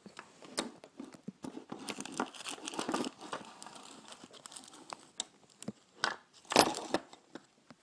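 Handling noises from working on an HO-scale model locomotive: rustling and many small plastic clicks, with one louder knock about six and a half seconds in.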